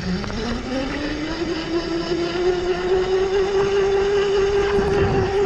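Electric motor of a child's electric dirt bike whining as it speeds up, the pitch rising over the first two seconds and then holding steady at speed.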